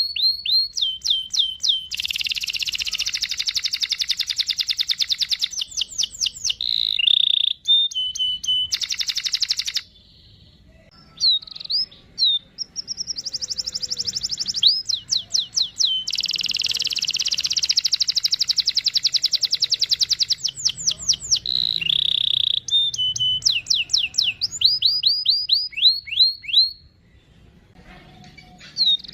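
Domestic canary singing hard: runs of quick, sharp down-sweeping chirps alternate with long rolling trills lasting several seconds. The song breaks off briefly about a third of the way in and again just before the end.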